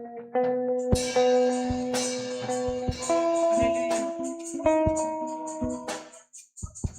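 Church band playing a hymn tune: guitar with held notes and drum hits, dropping out briefly near the end.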